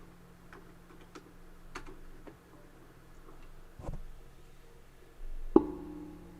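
A few light clicks, like a computer mouse, then a dull thud about four seconds in and a sharper knock with a brief ringing tone, like an object set down on a desk. A steady low electrical hum runs underneath.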